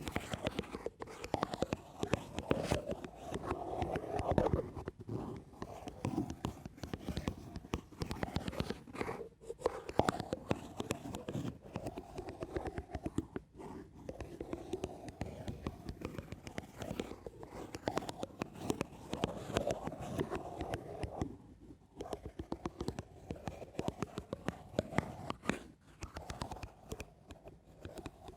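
Slow, gentle ASMR scratching: a continuous texture of fine crackling scratches, broken by a few brief pauses.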